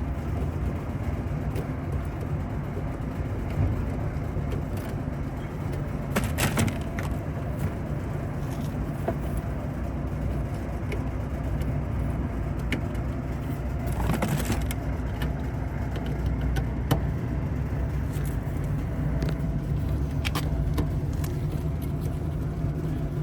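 Steady low mechanical drone with a steady hum in it, and a few brief clicks and rattles about six and fourteen seconds in.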